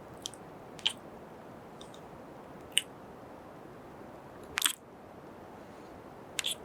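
Close-up kiss sounds and lip smacks into the microphone: about six short, wet smacks a second or so apart, the loudest a double smack just past the middle, over a faint steady hiss.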